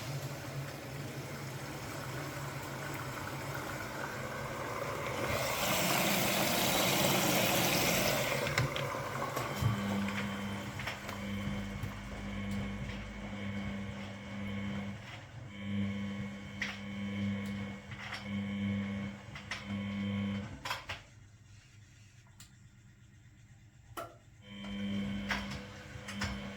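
Washing machine at work: a few seconds of rushing hiss, then a low electric hum that switches on and off in pulses about a second long, with a few sharp clicks. Near the end it falls briefly quieter before the hum starts again.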